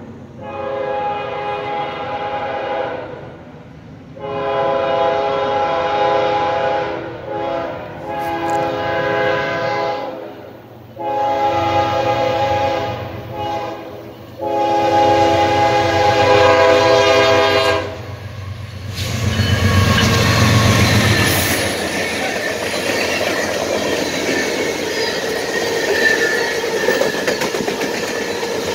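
A Norfolk Southern freight train led by a GE ES40DC locomotive sounds its multi-chime air horn in a series of long blasts with a short one between them. About 19 s in the horn stops, the locomotive rumbles past, and freight cars roll by with a steady clickety-clack of wheels over the rail joints.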